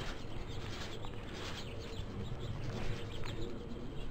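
Small birds chirping a few times, short irregular calls over a low steady rumble.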